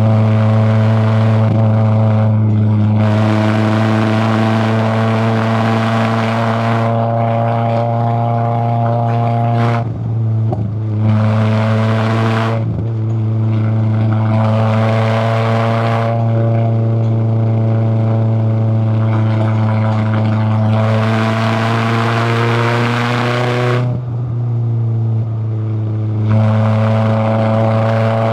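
Toyota AE86 Corolla Levin's 1.6-litre 4A-GE twin-cam four-cylinder engine pulling while driving at fairly even revs, its note holding a steady pitch. A brighter rasp comes and goes several times, and the sound dips briefly a few times.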